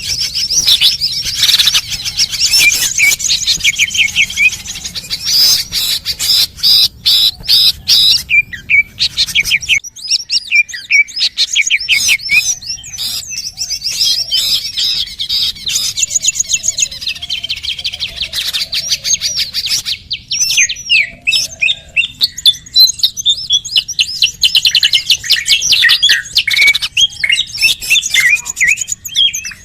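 Bird-lure recording of small songbirds: dense, rapid, high-pitched chirping and twittering with fast trills, nearly unbroken apart from a brief lull about ten seconds in.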